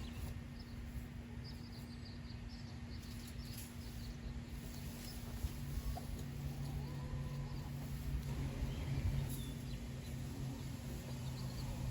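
Faint backyard hens clucking softly, with small birds chirping, over a steady low hum that deepens about halfway through.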